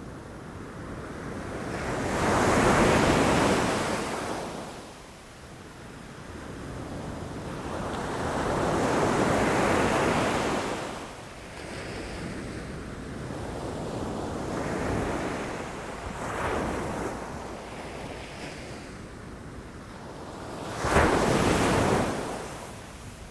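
Ocean waves breaking against rocks: a wash of surf that swells and falls in surges, about four in all, the last and sharpest crash near the end.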